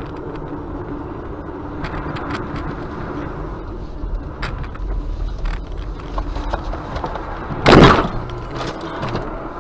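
Car on the road heard from a dashcam, with steady low road and engine noise and scattered light clicks. About eight seconds in comes a loud, sudden noise lasting under half a second.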